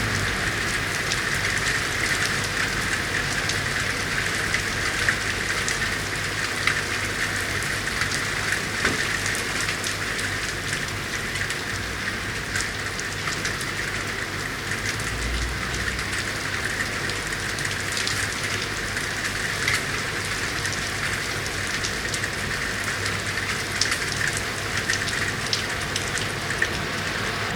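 Steady rain falling in a city street: an even hiss dotted with many sharp ticks of individual drops striking hard surfaces, over a low steady hum.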